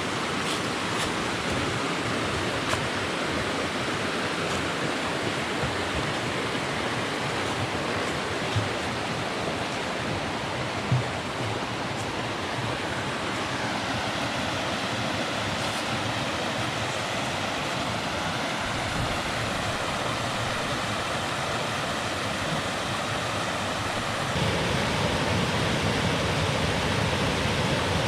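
Steady rush of flowing water, with a few sharp taps in the first half. About 24 seconds in it changes to a louder, deeper rush.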